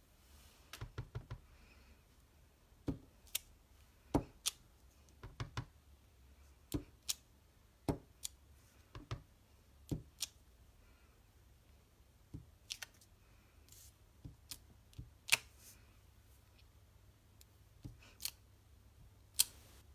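Rubber stamp tapped on an ink pad and pressed onto card: a string of sharp, irregular taps and clicks, some in quick clusters of three or four.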